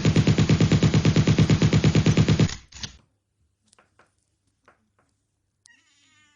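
Machine-gun fire sound effect: a rapid, even burst of shots at about ten a second that cuts off suddenly about two and a half seconds in, followed by near silence with a few faint clicks.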